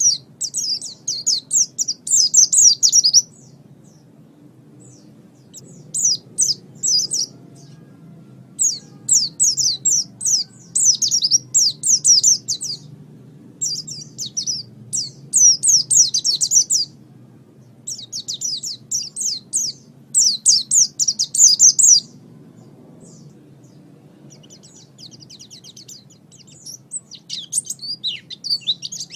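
A white-eye (pleci) singing in rapid, high chattering phrases of one to four seconds with short pauses between them. The last phrases, near the end, are fainter. A faint low hum runs underneath.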